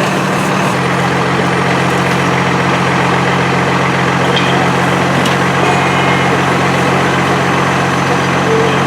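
Fire engine's diesel engine running steadily at the scene, with a constant hum whose pitch steps down once, under a second in.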